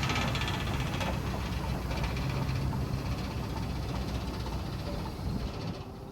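The carbureted V8 of a 1973 Chevrolet K20 pickup idles steadily after sitting for 20 years, getting quieter near the end.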